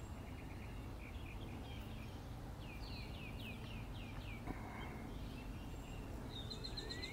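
Songbirds singing in the background: a run of quick down-slurred chirps about three seconds in, and a rapid high trill near the end, over a faint steady outdoor hiss.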